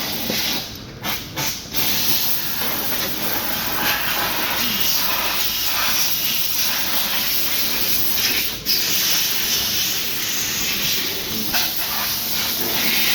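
A loud, steady hissing spray that breaks off briefly a few times about a second in, and once more about eight and a half seconds in.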